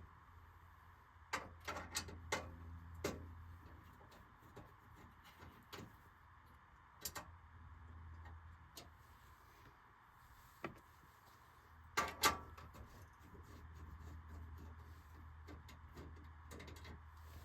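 Scattered clicks and knocks of parts and tools being handled on a furnace, over a low steady hum. There is a cluster of knocks early on and a louder pair about twelve seconds in.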